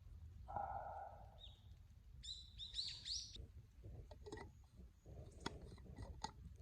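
A bird calling outdoors with a quick run of high chirping notes, followed by scattered sharp clicks and crackles.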